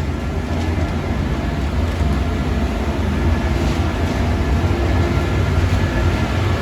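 Steady low rumble with an even hiss over it, unbroken throughout: continuous running machinery or rushing air, such as workshop air equipment or extraction fans.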